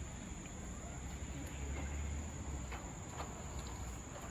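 Forest insects keeping up a steady high-pitched drone, with a few faint short chirps and ticks and a low rumble underneath.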